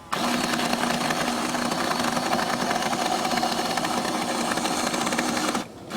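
Small electric motor of a remote-control toy boat running steadily, a buzzing whine with a fast rattle. It cuts out briefly near the end.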